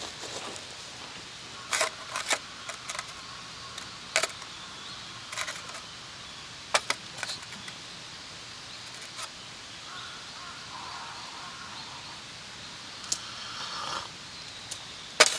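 Scattered sharp clicks and light clinks of small objects being handled, a dozen or so at irregular intervals, with a louder knock at the very end, over a steady outdoor background hiss.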